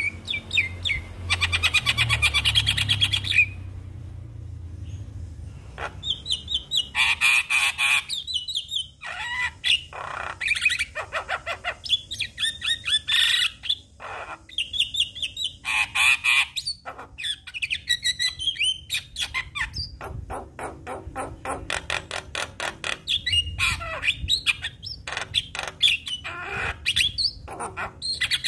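Javan myna singing: long runs of harsh, rapid rattling clicks and squawks mixed with chirped and whistled notes, with hardly a pause.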